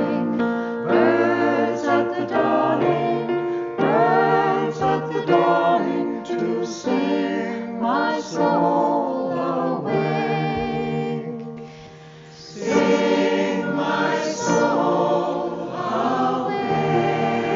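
Choir singing a slow melodic hymn-like song, with a short lull about twelve seconds in before the voices come back in.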